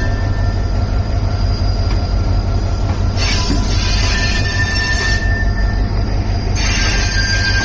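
Shah Latif Express passenger train running with a steady low rumble, and a high wheel squeal setting in twice: about three seconds in, and again near the end.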